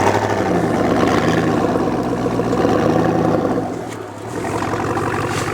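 Chevy Z71 4x4 pickup's engine running under load while plowing snow. It eases off about four seconds in and then picks up again.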